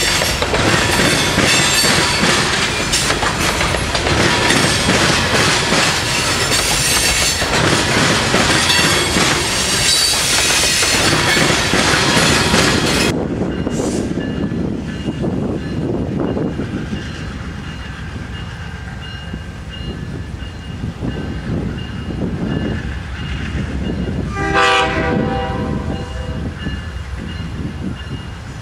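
Coal train hopper cars rolling past close by, a loud clattering rumble of wheels on rail that cuts off abruptly about 13 seconds in. After that a quieter steady rumble of a train standing at the station, with one short train horn blast of about a second near 25 seconds in.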